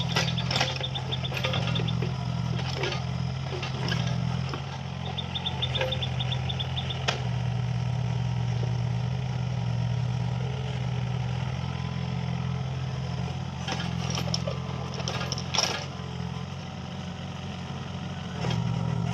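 Mini excavator's diesel engine running steadily, its note shifting up and down under changing load, with scattered knocks and clanks. Two short runs of rapid high ticking come in the first seven seconds or so.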